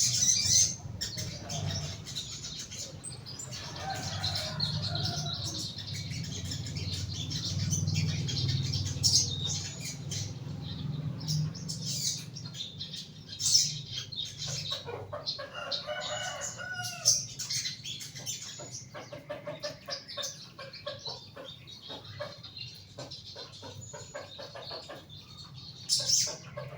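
A young crested jay (sogon) moving in its cage: wing flapping and fluttering with many sharp clicks and short calls, and a few gliding call notes about two-thirds of the way through.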